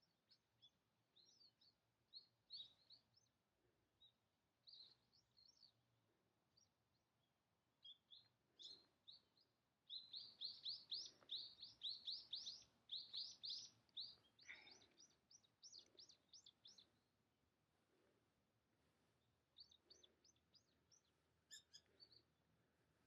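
Small birds chirping faintly in short high notes, scattered at first, then a dense run of rapid chirps about ten seconds in that lasts several seconds before thinning out again.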